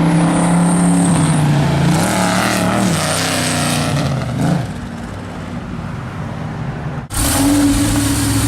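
Lamborghini Gallardo LP 560-4 Spyder's V10 engine running at a steady pitch, wavering in pitch a couple of seconds in, then quieter after a short blip about four and a half seconds in. A sudden break comes about seven seconds in, after which the engine runs steady and louder.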